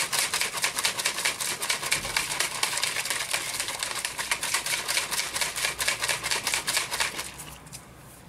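Whey protein shake being shaken hard in a shaker bottle: a fast, even rattling of about five or six strokes a second that stops about seven and a half seconds in.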